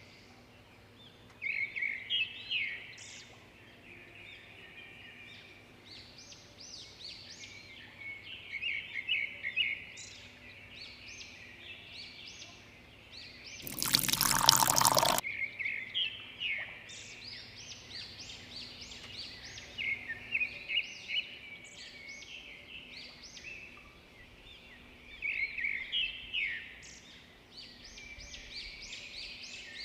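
Small birds chirping over and over in quick clusters throughout. Just before the middle comes one burst of pouring or splashing water, lasting about a second and a half, the loudest sound here.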